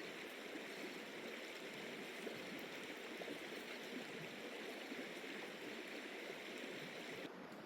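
Steady, even rushing noise like running water, its upper hiss dropping away suddenly near the end.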